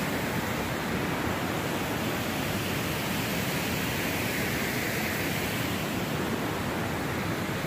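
Waterfall and river water rushing in a steady, even roar.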